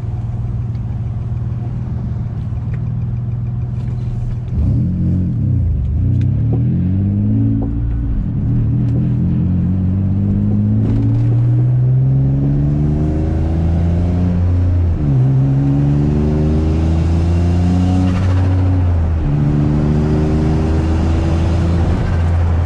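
Turbocharged Infiniti G35's VQ35 V6 running steadily at first. About four seconds in it goes to hard acceleration, its pitch climbing in long pulls and dropping back at each gear change several times.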